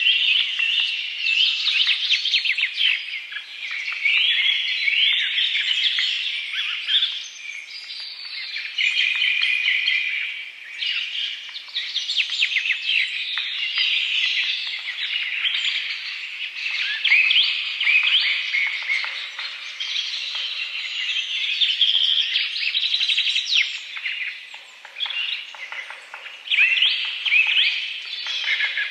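Songbirds chirping and singing without pause: several overlapping high-pitched calls, trills and rapid repeated notes.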